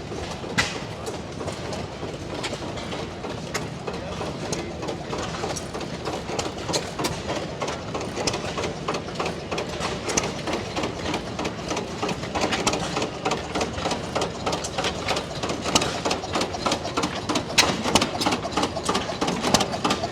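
Several antique hit-and-miss gas engines running together, a dense, uneven mix of pops, clicks and clacks that grows busier and louder about halfway through.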